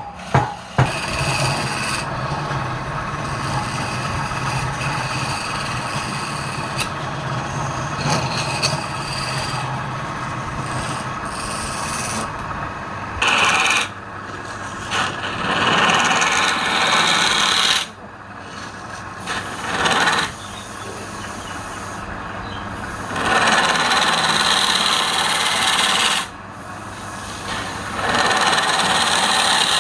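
A tool scraping wood spinning on a wood lathe, a continuous rasping noise over the lathe's running hum. In the second half, four louder passes of a few seconds each come as the tool bites harder. Two sharp knocks come right at the start.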